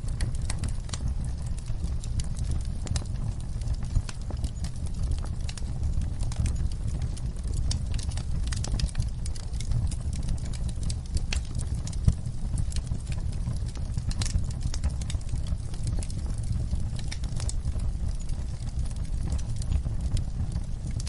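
Wood fire burning in a fireplace: a steady low rumble of the flames under frequent crackles and sharper pops from the burning logs, the loudest pop about twelve seconds in.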